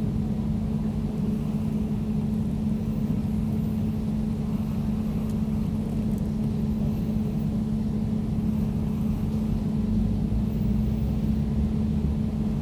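Air conditioner running steadily: an even low hum with one fixed tone and a deeper rumble under it.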